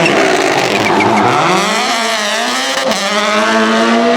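Rally car engine accelerating hard: the note dips, then climbs steadily as the car pulls away, with a quick gearshift near three seconds before it keeps rising.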